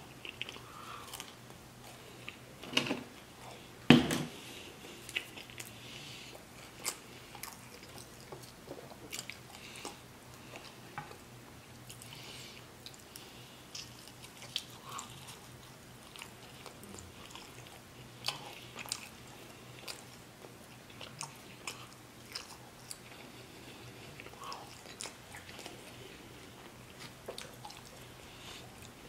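Close-miked eating: a man chewing and biting into barbecue-sauced baby back ribs, with many short wet clicks and mouth smacks. Two louder knocks come about three and four seconds in, the second the loudest sound.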